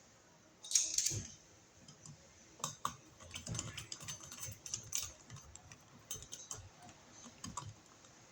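Irregular light clicks and small taps of hand work on a wall outlet box: small metal parts and hardware being handled and fitted into place.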